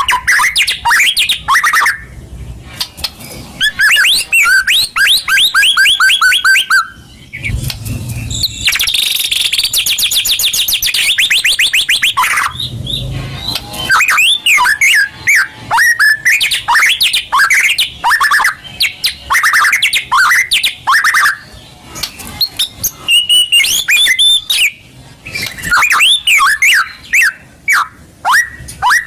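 White-rumped shama (murai batu) singing a loud, varied song of sweeping whistled notes, broken by fast trills of rapidly repeated notes.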